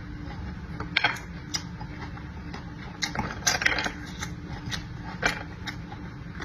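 Eating sounds: scattered short smacks and clicks of chewing and handling food, with a cluster of them about halfway through, over a steady low hum.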